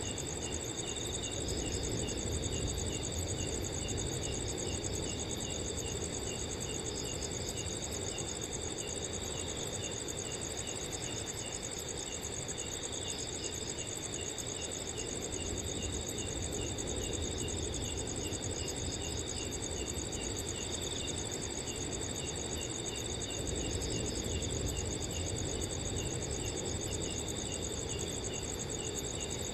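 Crickets chirping in chorus: a continuous high trill with a steady run of evenly spaced chirps, about three a second, over a low, even rush of wind.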